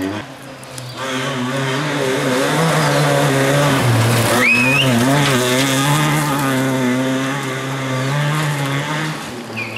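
Volkswagen Polo rally car engine running hard at high revs, its pitch dipping briefly about four seconds in and then climbing again. A short rising squeal sounds just after the dip.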